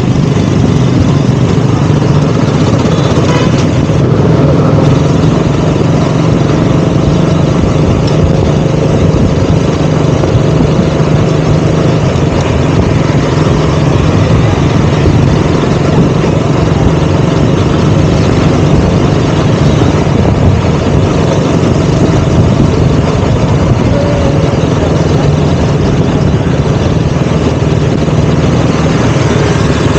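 KTM Duke 200's single-cylinder four-stroke engine running steadily, with no marked revving.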